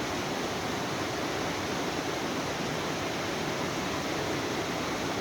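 Steady rush of a fast-flowing mountain stream, with no breaks or separate sounds.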